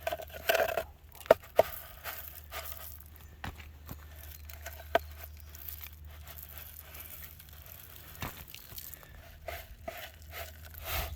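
Rustling, crinkling and scattered sharp clicks of bird feed being handled and set out by hand, with a few louder knocks in the first couple of seconds.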